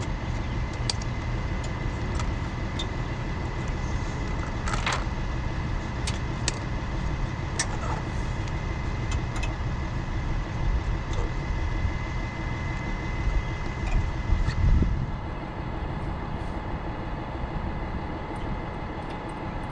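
A truck engine runs steadily at idle with a constant whine over its rumble. Scattered sharp clicks and knocks from hookup gear being handled cut in, and a louder rumble swells briefly a few seconds past the middle.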